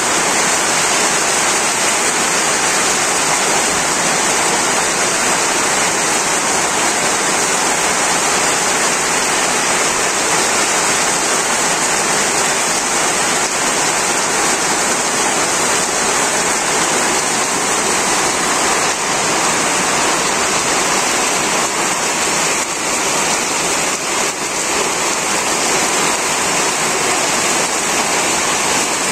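Heavy rain falling steadily on corrugated tin roofs, walls and waterlogged ground: an even, unbroken rush of water.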